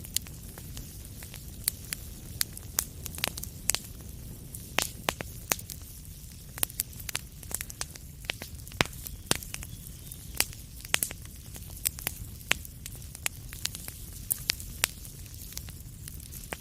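Wood fire crackling: frequent sharp pops and snaps at irregular intervals over a steady low rumble of the burning fire.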